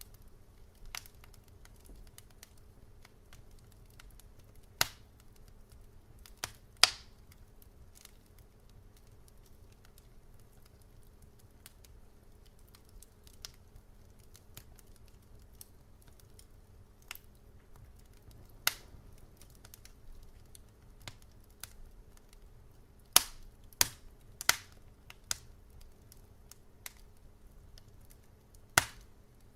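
Wood fire crackling: sparse, sharp pops and snaps a few seconds apart, with a quick cluster of them near the end, over a faint low steady rumble.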